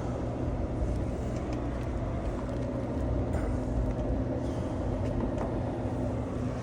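Steady hum of city street traffic, with the even drone of a vehicle engine idling close by.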